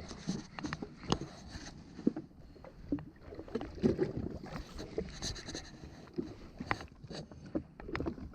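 Water lapping and slapping against the hull of a drifting jet ski, with scattered small knocks and clicks.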